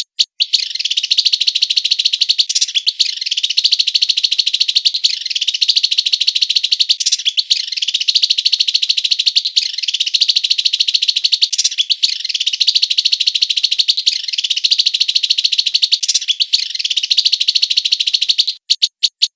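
A songbird's dense, rapid rolling trill, repeated in near-identical phrases about every two seconds. It breaks off near the end into a few separate notes.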